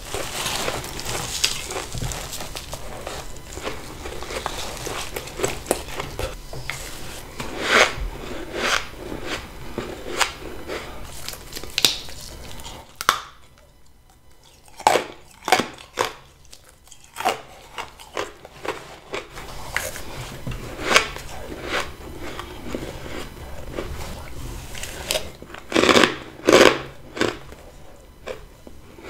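Close-up bites into soft, powdery freezer frost, grown in a deep freezer with a humidifier: a run of crisp crunching and crackling bites. There is a quieter pause about halfway through, and a cluster of the loudest bites near the end.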